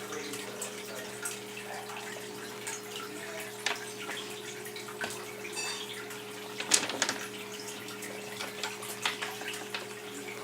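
Red-eared slider turtles feeding in a water-filled tank: a scatter of small splashes and knocks in the water, the loudest a little past halfway, over a steady low hum.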